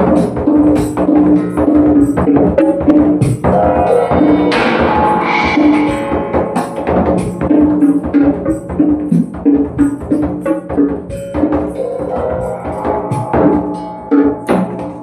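Hand percussion played in a dense, rhythmic run: drum strikes and tambourine jingles over steady ringing tones.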